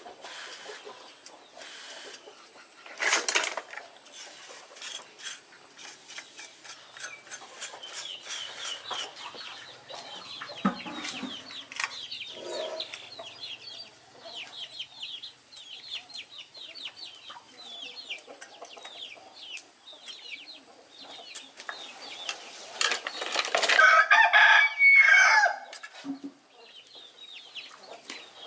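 Chickens chirping and clucking, with many short high chirps throughout, and a rooster crowing near the end, about two seconds long and the loudest sound. Scattered knocks and clatter, with one brief loud clatter about three seconds in.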